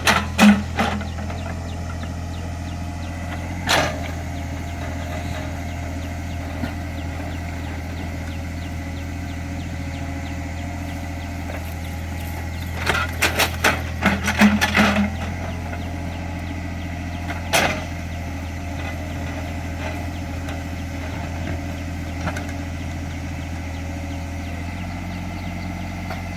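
Small CAT excavator's diesel engine running steadily, with clusters of sharp knocks and clanks from the bucket working the ground: a few near the start, one about four seconds in, a longer run about halfway through and one more soon after.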